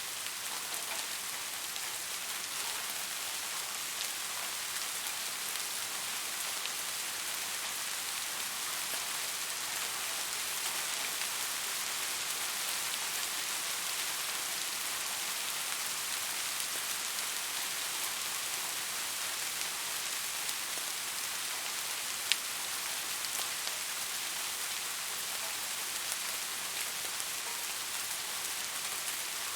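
Steady rain falling, a dense even hiss with scattered drop ticks and one sharp drop click about 22 seconds in.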